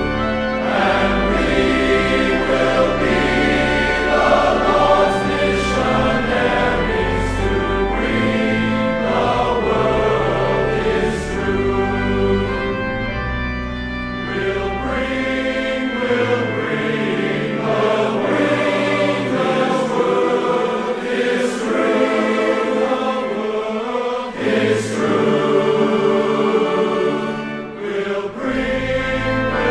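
Choir singing sacred music with instrumental accompaniment. The bass notes drop out for a stretch in the second half, then return near the end.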